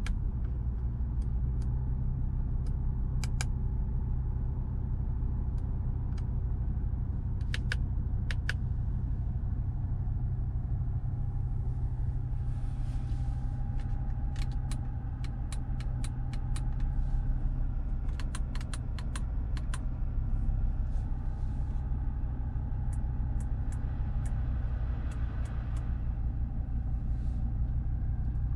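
Audi RS3's turbocharged five-cylinder engine idling steadily, heard from inside the cabin. Scattered sharp clicks of dashboard and climate-control buttons being pressed sound over it, some singly and some in quick runs.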